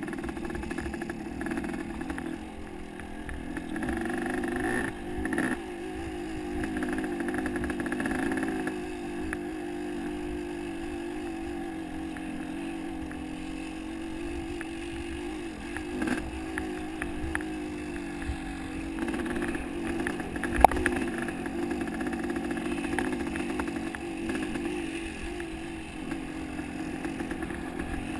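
Motocross dirt bike engine running under way, its pitch wavering up and down with the throttle, with one sharp knock about twenty seconds in.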